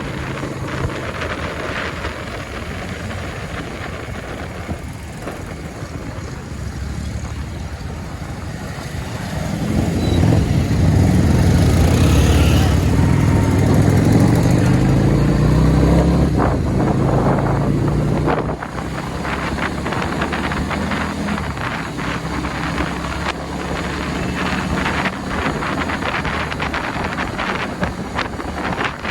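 Engine and road noise on a moving motorbike in highway traffic, with wind buffeting the microphone. From about ten seconds in, a much louder engine comes in, rising slightly in pitch, then drops away suddenly near eighteen seconds.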